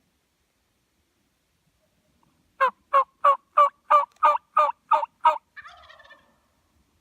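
A series of nine loud, evenly spaced turkey yelps, about three a second, starting a couple of seconds in, followed by a softer, trailing sound.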